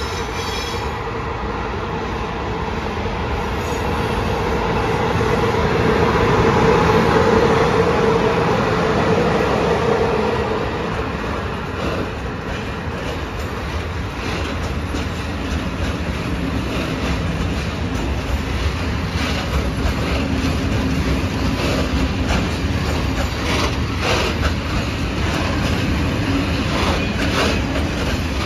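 A locomotive passes close by, its steady hum growing to its loudest about seven seconds in and then fading. A long freight train of high-sided open wagons follows, rolling by with a steady rumble and the clicking of wheels over rail joints.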